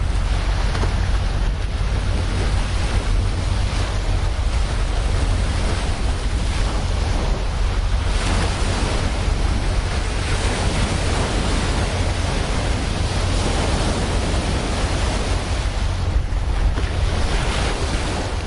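Sea waves washing against a cargo ship, the noise swelling louder about eight seconds in and again near the end, over a steady deep rumble.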